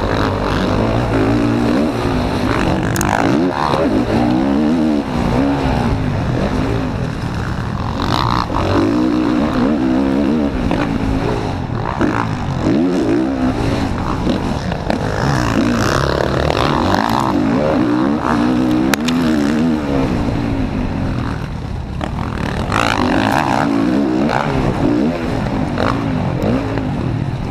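Motocross bike engine under race load, revving up and falling back again and again as the throttle opens and closes, heard from an onboard camera.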